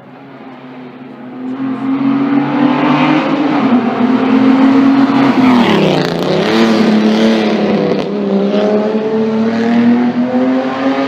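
A classic racing car's engine running hard on a hill-climb, growing louder over the first couple of seconds. About six seconds in, the engine note dips sharply and then climbs again, and it keeps rising steadily through the rest.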